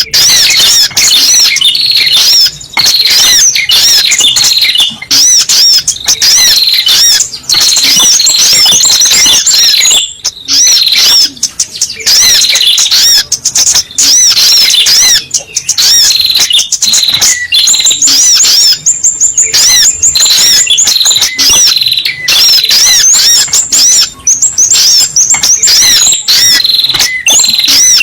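Sogok ontong bird call used as a lure (suara pikat): loud, rapid high chirps in arching notes, repeated in long unbroken runs with a brief break about ten seconds in.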